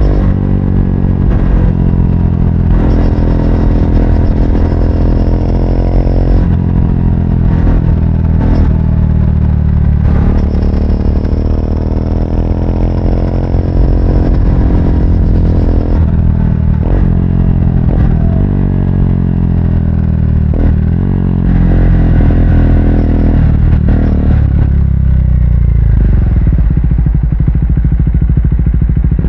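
Triumph Speed 400's single-cylinder engine running on the road, its pitch repeatedly rising and falling as it accelerates and eases off, with occasional sharp clicks.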